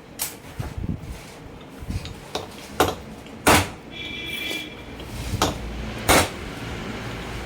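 A string of sharp metal knocks and clanks from work on a truck differential's pinion assembly, the loudest about halfway through and again near the end. A brief high ringing tone sounds in between.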